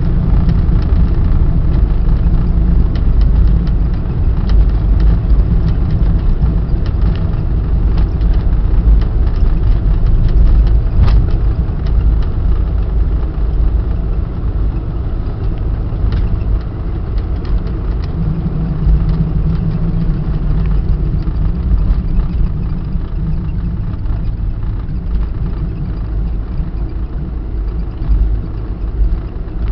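Boeing 747-400 heard from inside the cabin: a loud, continuous low rumble with scattered rattles and clicks, easing off gradually.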